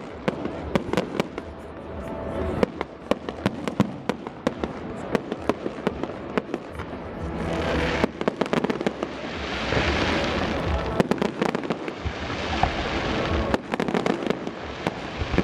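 Aerial fireworks going off: many sharp bangs and pops, and a dense crackling hiss in the middle that swells and fades over about four seconds. Music plays underneath.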